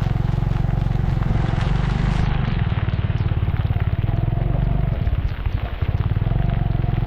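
Small engine running steadily under a rider, its low firing pulses dense and even, with a continuous hiss of wind and road noise over it.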